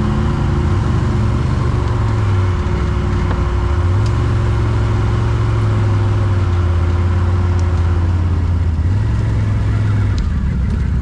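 ATV (quad bike) engine running under way, its pitch stepping up about four seconds in and shifting again near the end. A steady whine runs alongside and drops away about eight seconds in.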